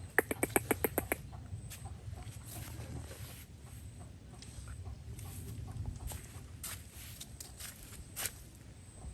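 A bird gives a rapid run of about eight short calls within the first second, then only scattered light clicks and taps follow.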